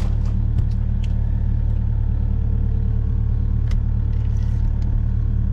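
Kubota U55 mini excavator's diesel engine running steadily, with the hydraulics working the bucket and thumb; a faint whine sits over the engine for a couple of seconds in the middle, with a few light ticks.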